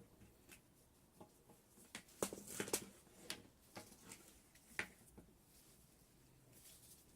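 Scattered light clicks and knocks, with a quick cluster of them about two seconds in.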